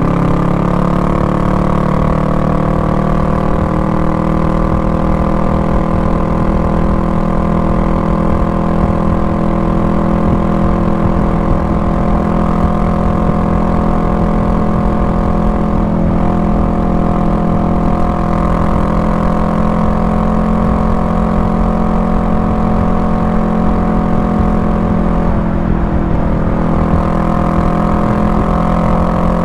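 Honda Rebel 500's parallel-twin engine running steadily, its pitch holding level, with a brief dip and recovery near the end.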